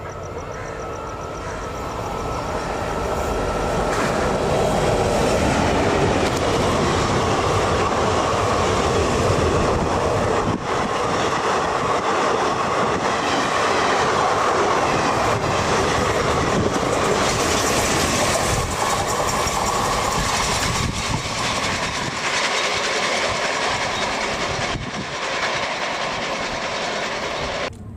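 Express train passing at speed through a station: a steady rush of wheels on rail with clickety-clack from the rail joints. It builds over the first few seconds and cuts off suddenly near the end.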